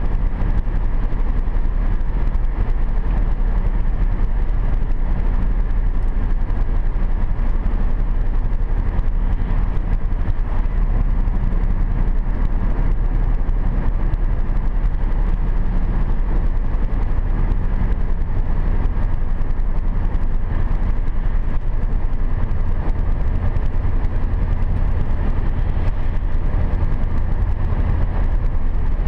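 Steady road noise inside a car cruising at about 80 km/h on a wet road: a constant low rumble of tyres and engine with a hiss over it.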